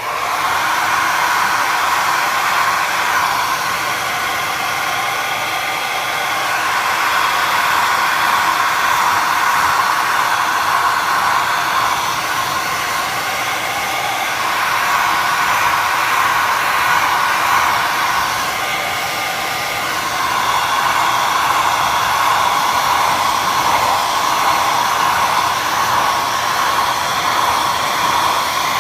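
Hair dryer running steadily, a continuous rushing blow with a strong hum in it that swells and eases slightly a few times.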